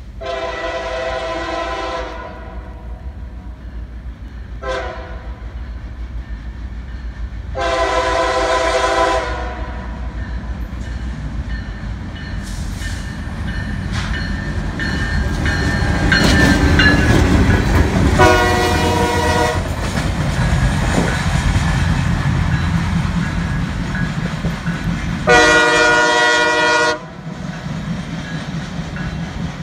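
Diesel freight train approaching and passing, its multi-chime air horn sounding five blasts: long, short, long, then two more long ones later. Under the horn, the locomotive's engine rumble swells as it goes by, with the clatter of wheels over the rails.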